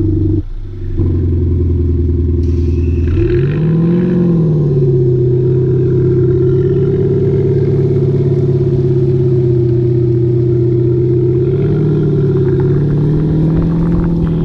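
Mercedes CLA 180 petrol idling with a Panthera Leo active sound generator adding a synthetic V8 note at the exhaust, giving a steady low burble. The revs are blipped once about three to four seconds in, rising and falling back, and nudged up again briefly near twelve seconds.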